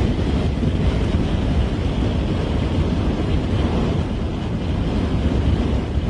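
Strong gusty blizzard wind blowing across the microphone: a steady rushing noise with a heavy low rumble.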